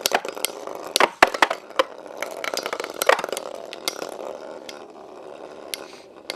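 Two metal Beyblade spinning tops, Lightning L-Drago 100HF and Burn Fireblaze 135MS, whirring as they spin on the stadium floor, with sharp clacks as they strike each other, loudest about one and three seconds in. The whirring eases off toward the end.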